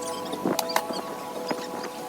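A knife shaving curls off a wooden stick to make a feather stick: a few sharp scraping strokes, about half a second in and again about a second and a half in, over background music with long held notes.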